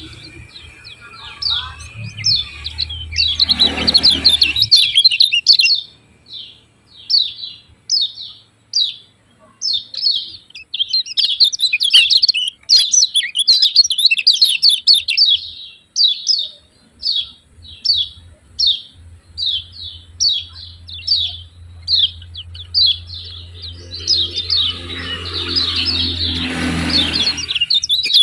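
Common iora (kecial kuning) giving its rapid, repeated 'ciak ciak' chirps, short sharp high notes in quick runs of several a second. A brief rustling noise with a low hum comes about four seconds in and again near the end.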